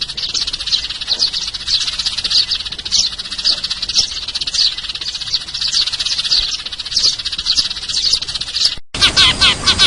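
A flock of sparrows chattering, with many chirps overlapping in a steady chorus. Just before the end it breaks off for an instant, then resumes louder with quick, evenly repeated chirps.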